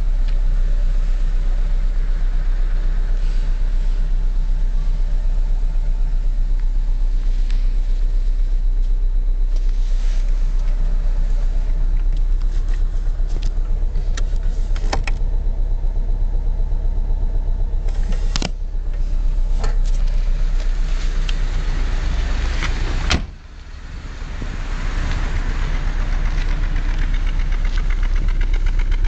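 Ford Zetec S's engine running at idle with a spun bearing shell. The sound drops sharply for a moment about two-thirds of the way through, then comes back.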